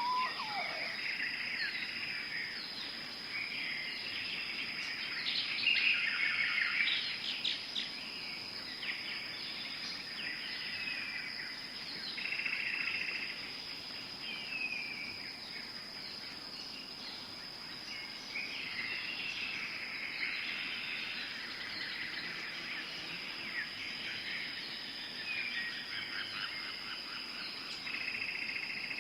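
Tropical forest ambience: many birds calling and chirping in overlapping bursts, over a steady high-pitched insect drone.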